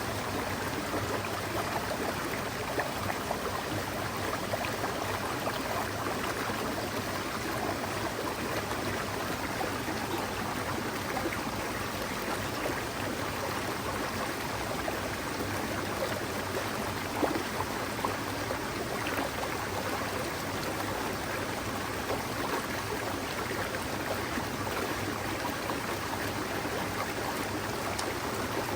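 Forest mountain stream flowing over rocks: a steady rushing, babbling water sound.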